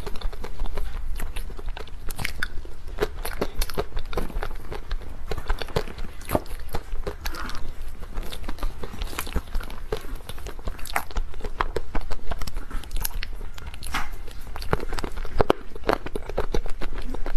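A person eating cake right at the microphone: steady chewing with many small, irregular clicks, smacks and crunches.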